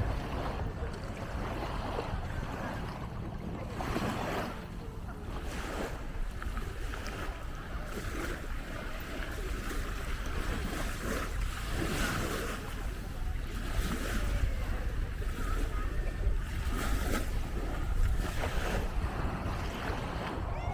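Wind buffeting the microphone, with sea waves washing on the shore underneath.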